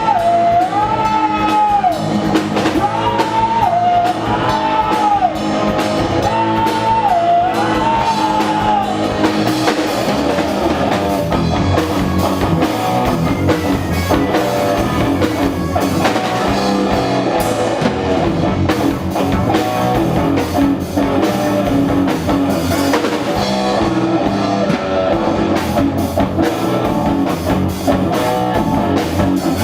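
Live rock band playing, with guitar and drum kit; a lead melody bends up and down over the band for roughly the first nine seconds before the full band carries on.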